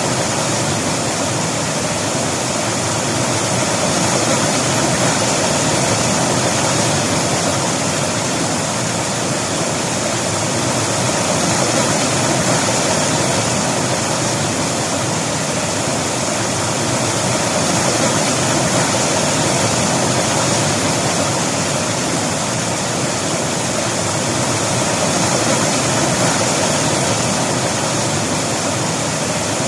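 River water rushing steadily, a loud even roar with slight slow swells.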